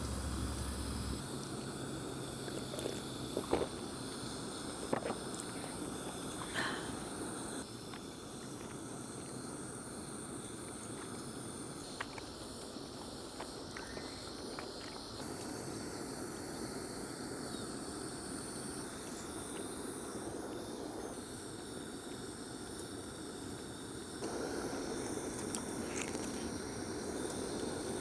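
Steady outdoor background hiss with faint high insect-like buzzing, a few sharp clicks in the first several seconds, and the background shifting in level a few times.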